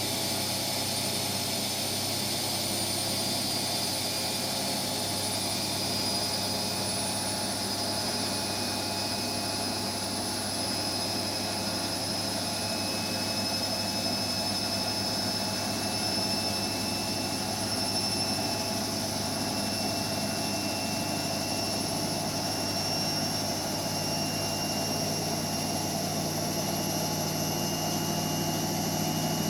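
Hotpoint Extra WMXTF742K washing machine running, its motor whine climbing slowly in pitch as the drum speeds up, typical of the build-up into a high-speed spin.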